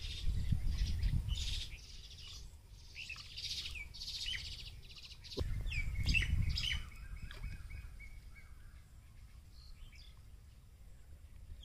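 Small birds chirping and calling in quick, short notes, busiest over the first seven seconds and thinning out after. Two spells of low rumble come at the start and again about five and a half seconds in, and these are the loudest parts.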